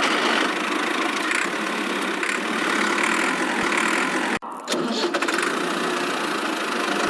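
Small motor of a miniature model tractor or bulldozer running steadily with an engine-like rattle. The sound breaks off briefly about four and a half seconds in, then resumes.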